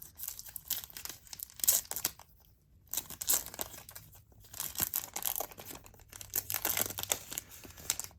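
Crinkling plastic wrapping on a group of trading cards being torn open and handled, in irregular crackles with a short pause about two seconds in.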